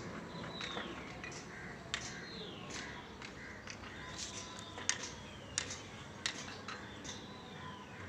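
Birds calling: repeated short, sharp calls scattered throughout, with several drawn-out whistles that slide down in pitch.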